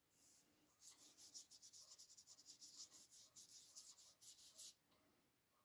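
Faint, quick scratching strokes of a drawing tool on paper, several a second, stopping about a second before the end.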